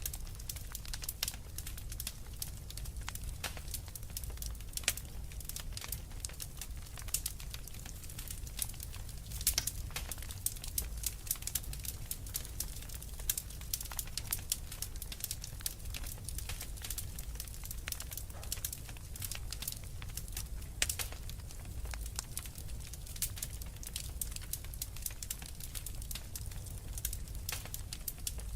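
Wood fire crackling, with frequent sharp pops and snaps scattered irregularly over a low steady rumble.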